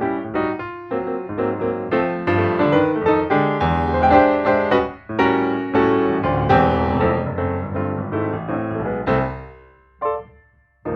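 Background piano music, a quick run of notes that fades out near the end, with a single short note just after.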